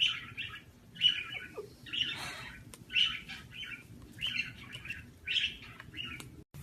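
A parrot giving a series of short chirps and squeaky calls, one or two a second.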